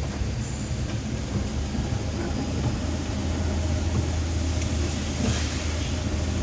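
Inside the cab of a Suzuki Carry Futura pickup on the move: a steady low engine and road rumble under an even hiss of heavy rain on the cab and road.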